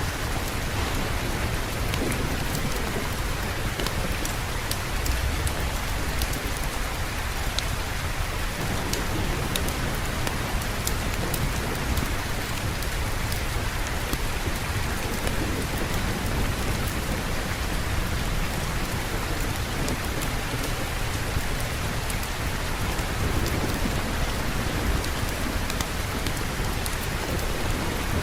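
Steady rainfall with a continuous low rumble underneath, typical of distant thunder, and scattered sharp little ticks of drops.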